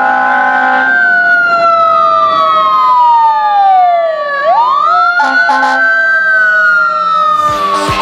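Fire truck siren wailing, its pitch sliding slowly down and then winding back up and falling again, over a steady air horn chord that stops about a second in. Three quick horn blips sound around five seconds in, and a loud burst of horn and noise starts near the end.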